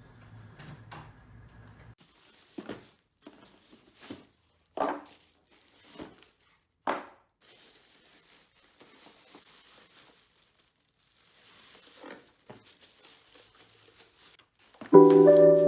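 Separate rustling and crinkling handling sounds with a few sharper taps, then a longer soft rustle; piano music starts near the end.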